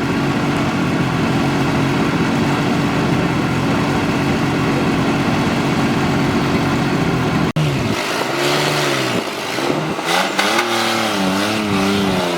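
Off-road 4x4 vehicle engine running at a steady pitch, then, after a sudden break about seven seconds in, revving up and down repeatedly as the pitch rises and falls several times.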